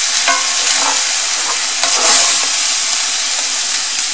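Chicken and sliced ginger sizzling steadily in oil in a cast-iron skillet while being stirred, with a few light knocks and scrapes of a wooden spoon and spatula against the pan.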